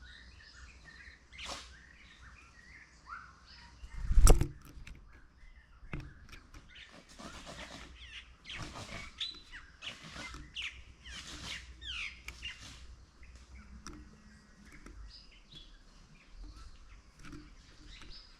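Small birds chirping and calling repeatedly, many short chirps overlapping, with a brief loud thump about four seconds in.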